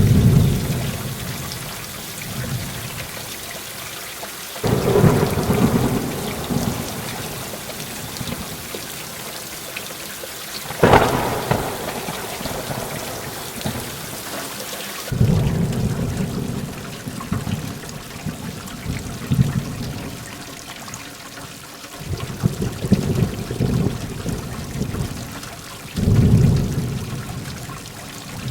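Heavy rain falling steadily, with about six rolls of thunder rumbling through it and one sharp crack about eleven seconds in. About halfway the rain's hiss turns abruptly duller.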